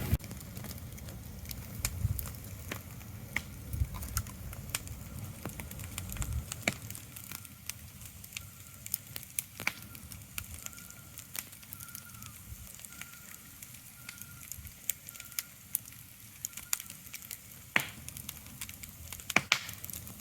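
Irregular crackling: sharp pops and snaps over a faint steady hiss, with a low rumble under them for roughly the first six seconds.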